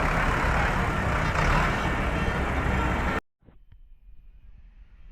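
Tractor engines running loudly with road noise, steady for about three seconds, then cut off abruptly, leaving only a faint low rumble.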